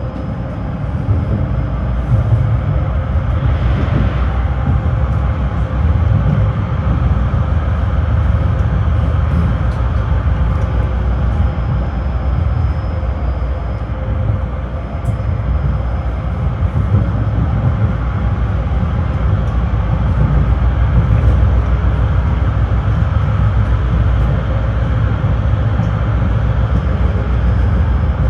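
Tram running between stops, heard from inside the car: a steady low rumble of the wheels on the rails and the running gear. A brief hiss about four seconds in.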